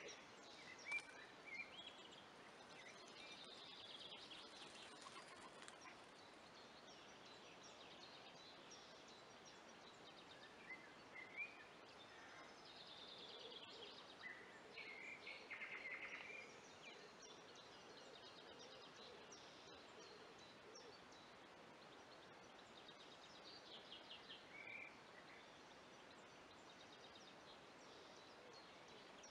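Faint songbird calls and song in short scattered bouts over a quiet, steady outdoor hiss, with two sharper calls about a second in.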